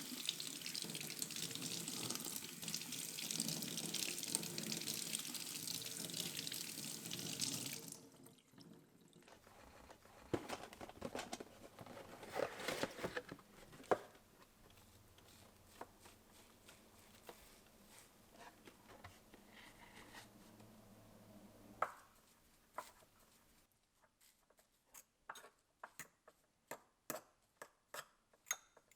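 Water running from a tap into a sink as a steady hiss, cut off sharply about eight seconds in. Scattered knocks and rustles of things being handled follow, and near the end a run of sharp clicks, about two a second.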